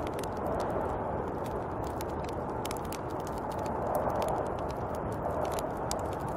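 Snowstorm wind blowing as a steady rushing noise, swelling slightly a few seconds in, with scattered light ticks over it.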